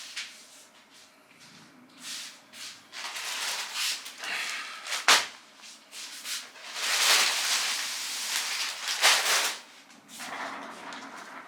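Rustling and rubbing as clothing and its plastic packaging are handled, in uneven bursts, with a sharp click about five seconds in.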